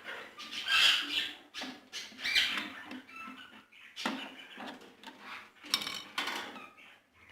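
Ring-necked parakeets squeaking and chattering in uneven bursts.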